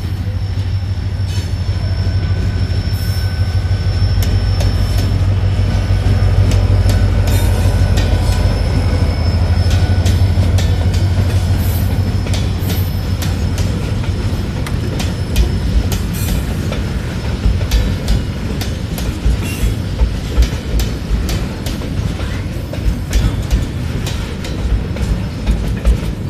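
Freight train passing close by: a diesel locomotive's engine drones low and grows louder over the first ten seconds, then loaded container flatcars rumble past, their wheels knocking in a quick irregular clatter over the rail joints.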